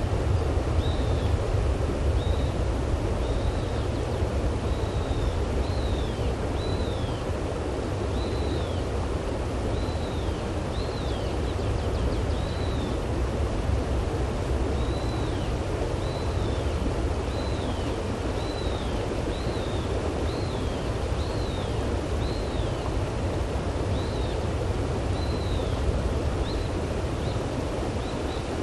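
Small river flowing with a steady water noise. Over it a bird calls again and again, short high notes that slide downward, about one a second.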